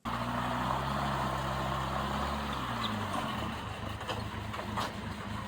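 Off-road buggy's engine running steadily at low revs, the even engine note weakening about three seconds in, with a faint click or knock near the end.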